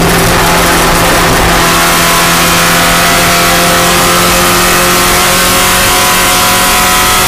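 Spec Miata race car's four-cylinder engine running loud at nearly constant revs, its pitch holding steady with no shifts.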